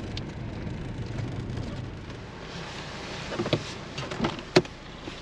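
Tow vehicle's engine idling with a steady rumble. A few short knocks and clicks come about three and a half seconds in, and a sharper, louder one comes near the end.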